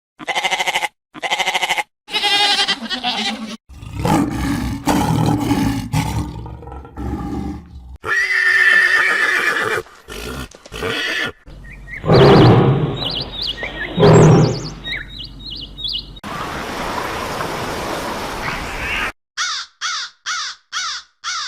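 A string of short recordings of different animals calling, cut abruptly one after another every few seconds. Near the end a crow caws in a quick series of about two calls a second.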